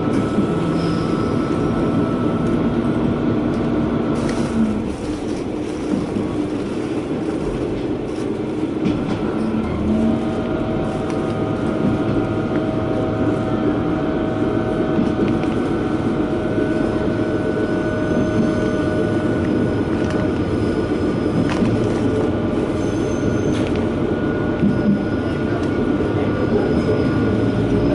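A KiHa 120 diesel railcar running, heard from inside the cabin: a steady rumble of engine and wheels on rail, with thin whining tones over it that stop about five seconds in and return at a different pitch about ten seconds in.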